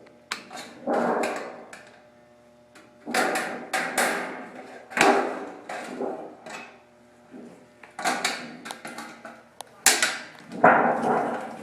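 Hand snips cutting galvanized sheet-metal ductwork in several short bursts of crisp clipping strokes, with the thin metal rattling as it is handled.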